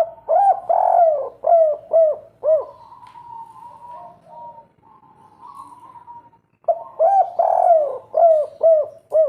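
Spotted dove cooing its 'kuk 3' song twice, about four seconds apart: each phrase is a few drawn-out coos followed by three short, arched notes.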